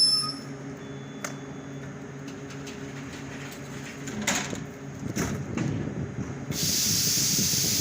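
Passenger train running past, a steady low hum with scattered clicks and knocks from the wheels and cars; wheel squeal fades out at the very start. About six and a half seconds in, a steady hiss sets in and stays.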